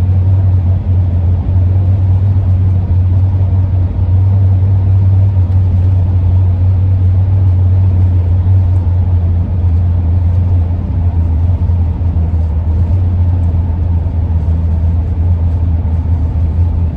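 Cabin noise of a 2001 Ford E-350 van driving at a steady speed: a loud, steady low hum with road noise.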